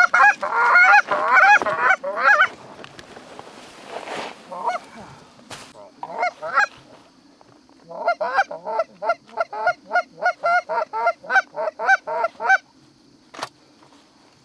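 Canada goose honks and clucks: a dense run at the start, a few scattered calls, then a steady string of about three a second from about eight seconds in. A single sharp click near the end.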